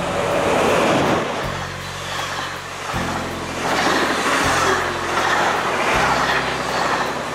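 Electric locomotive hauling double-deck passenger coaches past at close range, with a loud rushing of wheels on the rails that swells as the coaches go by. Background music with low held notes that change about every second and a half plays underneath.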